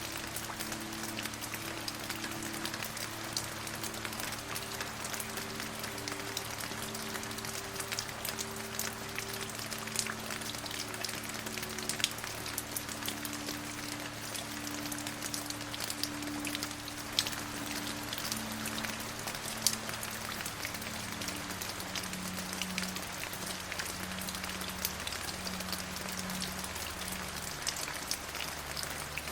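Steady rain falling on a surface, with the sharp ticks of single drops and a few louder drops standing out. Soft, low held notes change slowly underneath.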